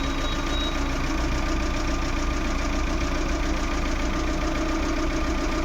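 Maruti Suzuki Eeco's four-cylinder petrol engine idling steadily and evenly. The smooth, unchanging idle shows the misfire and shaking are gone now that the faulty MAP sensor has been replaced with a new one.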